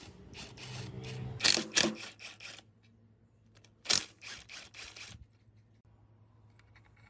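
Two quick runs of sharp clicks and knocks, the first starting about half a second in and the second about four seconds in, over a faint steady low hum.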